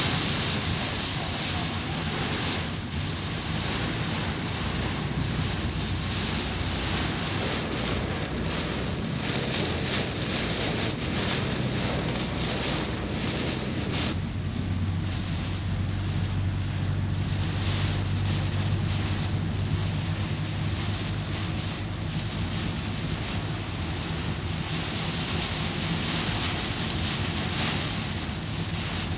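Heavy rain on a moving car, heard from inside the cabin as a steady rushing hiss mixed with road and engine noise. About halfway through, the hiss thins and a low hum comes forward.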